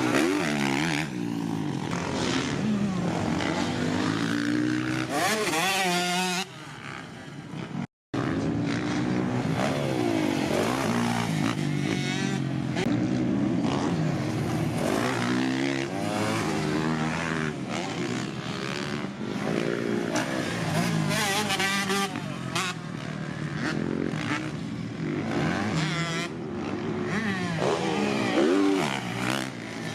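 Dirt bike engines revving up and down as the bikes ride laps on a motocross track, the pitch climbing and falling with each run through the gears. The sound drops out briefly about eight seconds in.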